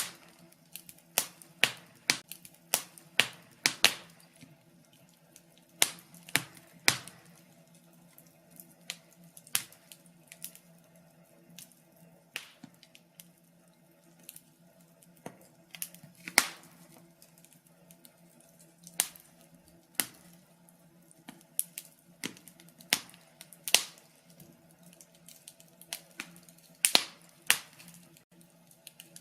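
Wood fire crackling in a fireplace: irregular sharp pops and snaps, some coming in quick clusters, over a faint steady low hum.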